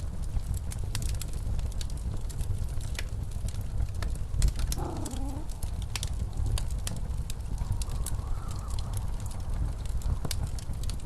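Fireplace crackling with frequent sharp pops over the steady low rumble of blizzard wind. A wavering pitched howl rises briefly about five seconds in and again, fainter, past the middle.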